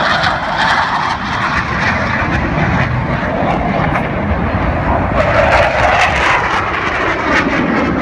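Blue Angels F/A-18 Hornet jets flying over, their engines loud and steady throughout.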